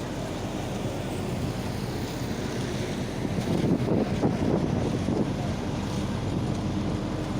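Double drum road roller's engine running steadily with a low hum, growing louder for a second or two in the middle, with wind noise on the microphone.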